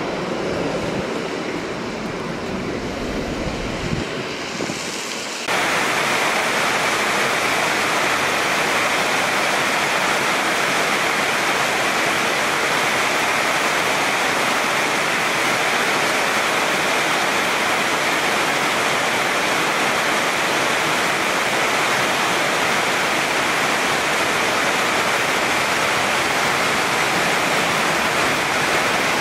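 Heavy rain falling steadily, a dense even hiss. In the first few seconds a low jet rumble from an airliner rolling out on the wet runway lies under it; about five seconds in the sound changes suddenly to a louder, brighter rain hiss.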